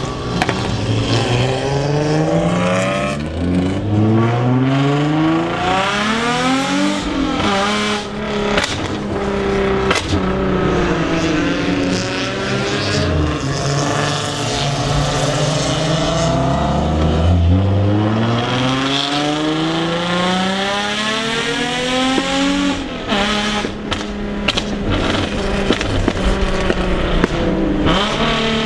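Nissan 350Z V6 exhaust, loud, its pitch climbing in long sweeps as the cars accelerate through the gears, dropping back at each shift, over a steadier engine drone.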